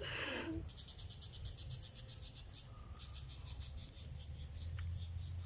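Insects trilling in a high, rapidly pulsing chirr, in two runs of about two seconds each, with a brief rustle at the start.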